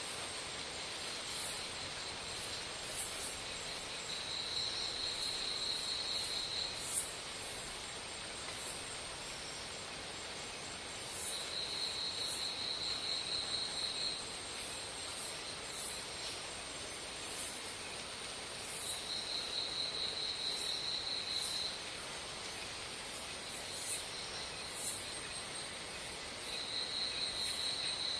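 Insects calling: a high, even trill of about two and a half seconds, repeating four times roughly every seven seconds, over a steady high-pitched insect drone.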